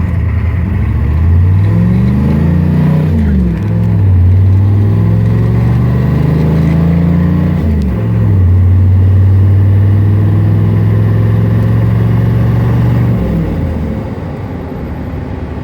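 1993 GMC K3500's 6.5-litre turbo diesel V8 accelerating hard from a stop with the truck fully loaded, its pitch climbing in each gear and dropping at two shifts of the five-speed manual, about three and a half and eight seconds in. It then runs steadily before easing off near the end.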